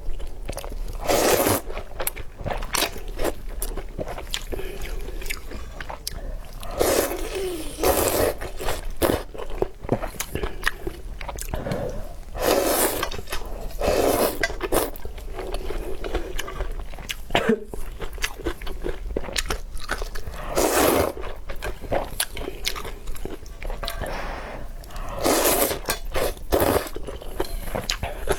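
Close-miked eating: a person biting, crunching and chewing food, with wet mouth clicks throughout and a louder bite every few seconds.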